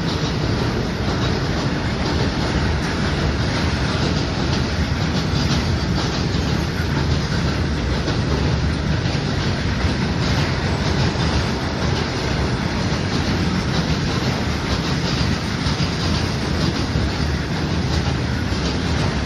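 Long freight train of open-top box wagons rolling past at close range: a loud, steady rumble of steel wheels on rail, with clickety-clack over the rail joints.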